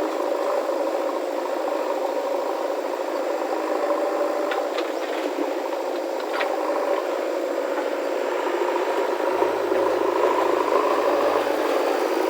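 Heavy machinery's diesel engine running steadily, with a few light clicks or rattles about halfway through and a deeper rumble joining near the end.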